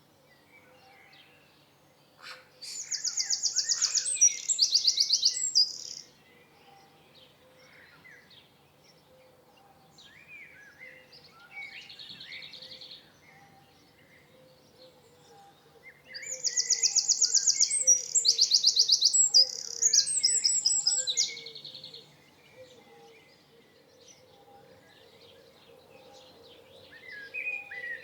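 Songbirds singing: two loud phrases of fast, high trills, about two and a half seconds in and again about sixteen seconds in, each lasting several seconds, with quieter chirps in between.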